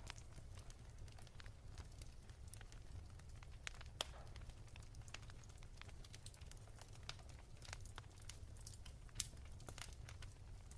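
Wood fire crackling softly: scattered small pops and ticks, with two louder pops about four seconds in and about nine seconds in, over a low steady rumble.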